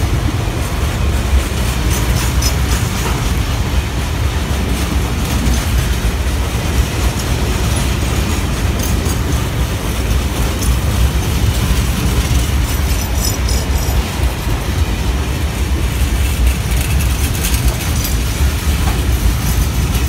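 Freight train of empty-looking open box wagons rolling past close by, a steady loud rumble with the wheels clicking and clattering over the rails.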